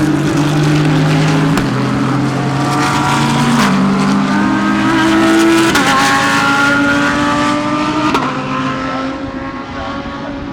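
Several GT3 race car engines at full throttle, pulling up through the gears. Each upshift drops the pitch sharply, every two seconds or so, with a few sharp pops among them. The sound fades slightly near the end.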